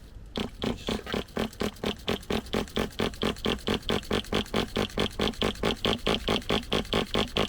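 Flooded nitro engine of an HPI Savage SS RC truck being turned over by its starter: a steady, even chugging at about seven strokes a second as it labours against the excess fuel.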